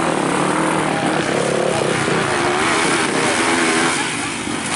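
Motocross bike engines running and revving on a dirt track, their pitch rising and falling.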